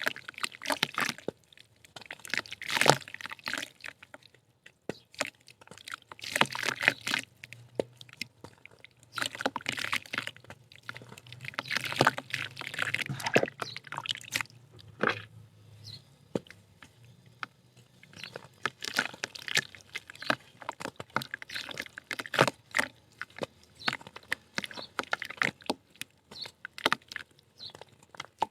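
Soft dried mud chunks crumbling and breaking apart, wet from dipping in water: irregular clusters of crackles, crumbles and small drips and splashes, with short pauses between handfuls.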